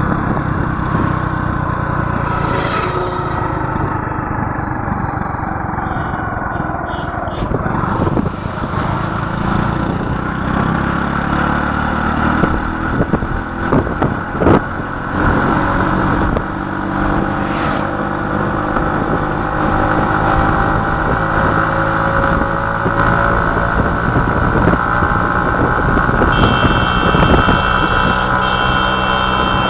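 Motor vehicle engine running steadily, its pitch slowly drifting, with a few sharp knocks about halfway through. Near the end a high beeping starts, repeating in short pulses.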